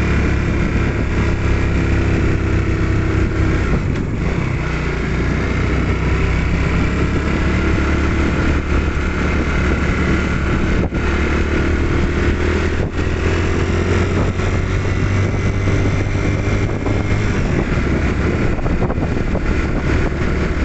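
Motorcycle engine running steadily while riding along a road, its pitch rising a little about two-thirds of the way through.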